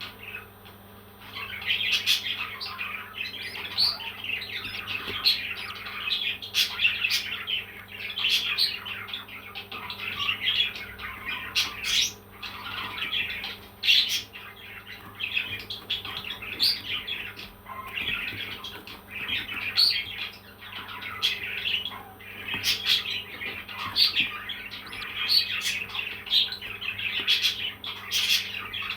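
Parrots chirping in quick, high, repeated calls with no break, with short sharp calls scattered among them.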